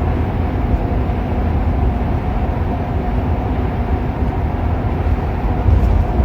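Steady road noise inside a moving car's cabin: a low rumble of tyres and engine with a hiss above it.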